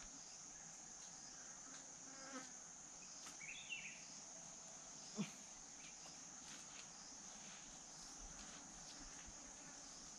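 Faint, steady high-pitched drone of insects, with a brief chirp about three and a half seconds in and a soft click a little after five seconds.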